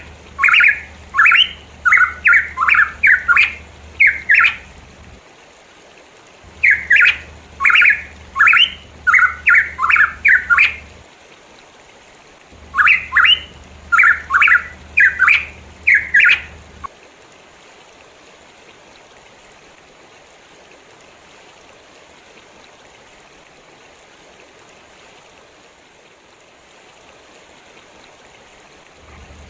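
Pitohui calling in three runs of loud, short, slurred whistled notes, about two to three a second, falling silent about 17 s in. A faint steady hiss carries on after the calls stop.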